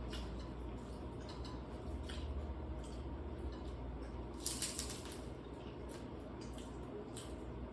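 Scattered small clicks and clinks of a meal being eaten, with a short cluster of louder clicks about halfway through, over a low steady room hum.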